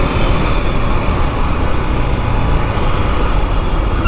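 KTM Duke 390's single-cylinder engine running at road speed under steady wind and road noise, with traffic around. A brief high tone comes in near the end.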